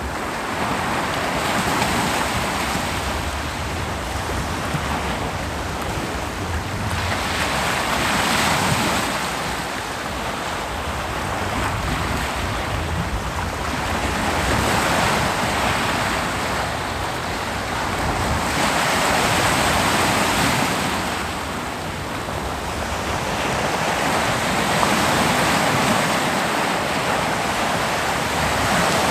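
Ocean waves breaking on a beach, a steady wash of surf that swells and eases with each wave, every four to six seconds.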